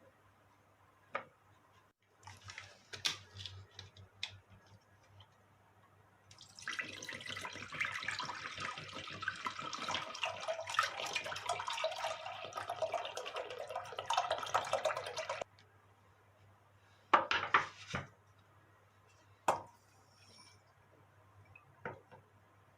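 Kitchen tap running into a sink for about nine seconds, the stream splashing. Short clicks and knocks come before it starts and after it stops.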